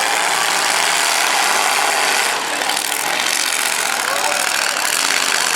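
Several demolition-derby cars' V8 engines running together in a loud, steady din.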